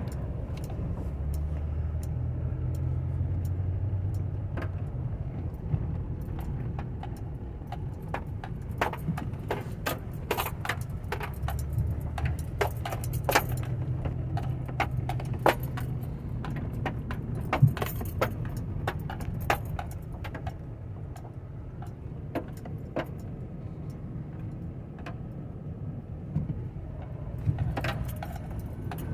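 Inside a slowly moving car: a steady low engine and road rumble, with frequent small metallic clicks and jingles rattling in the cabin.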